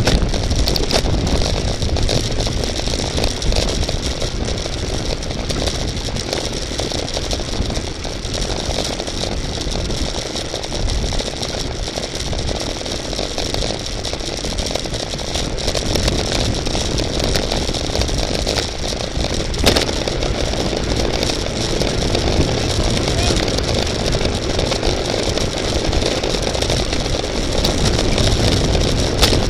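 Steady rush of wind and road noise on the microphone of a camera moving with a bicycle race, heaviest in the low rumble.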